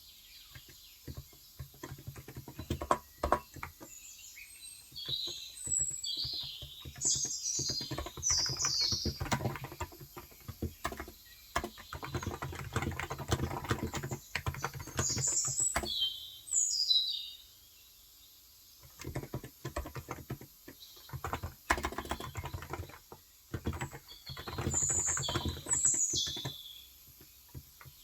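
Typing on a COX Endeavor electro-capacitive (Topre-style) tenkeyless keyboard with 35 g switches: fast runs of keystrokes broken by short pauses. Birds chirp several times over the typing.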